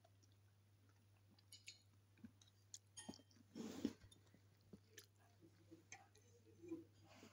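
Faint chewing of a mouthful of rice, with small wet mouth clicks, and a short noisy rush of breath or a scrape about three and a half seconds in.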